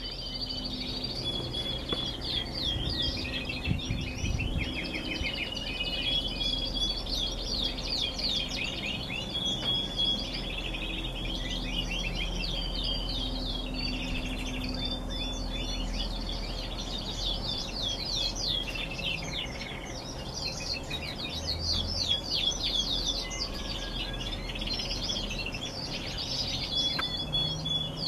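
Several domestic canaries singing together in long, continuous songs of rapid trills and rolling phrases, the songs overlapping throughout.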